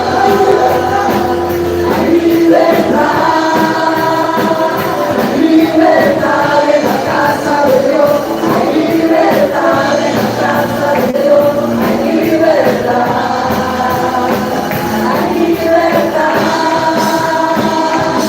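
Congregational worship music: a group singing a sung melody over a band accompaniment, with a tambourine.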